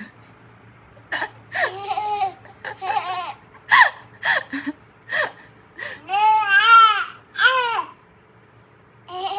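Baby babbling loudly in a string of short, high-pitched cries and squeals, with one longer wavering cry about two-thirds of the way through, like nagging.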